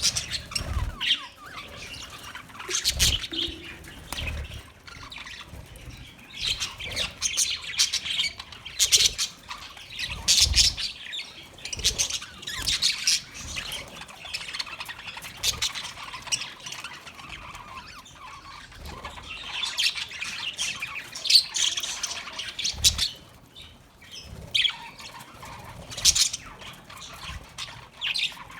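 Budgerigars chirping, chattering and squawking in irregular bursts, with scattered clicks and a few soft thumps.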